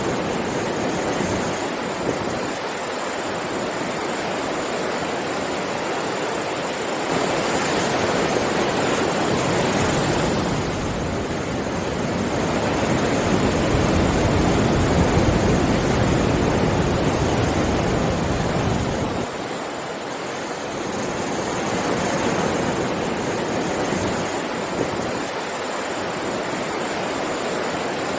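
Sea waves washing onto a beach in a continuous rush of surf, rising and falling in slow swells, with a bigger, deeper surge through the middle that falls away about two-thirds of the way through.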